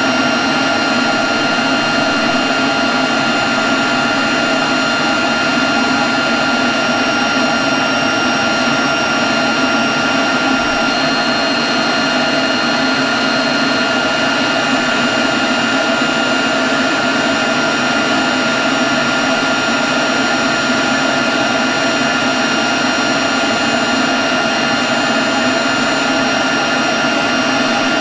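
Leaf blower running at a steady speed: a constant rush of air with a steady high whine over it.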